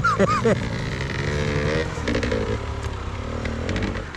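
Enduro motorcycle engine running and revving up and down, with quick throttle blips in the first half-second.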